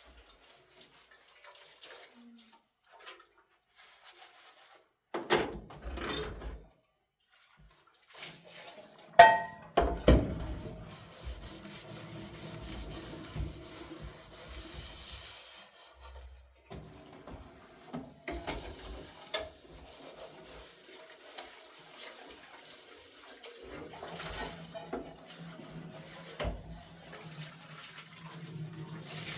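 Water running and splashing, with scattered knocks and clatter and a loud clank about nine seconds in.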